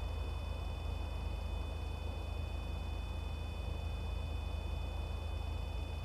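Steady background noise: a constant low hum under a high-pitched whine made of several steady tones, with no distinct event.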